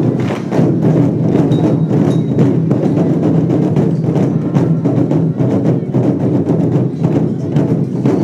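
Lion dance percussion band playing rapid, driving beats on drum and cymbals to accompany the lion troupe.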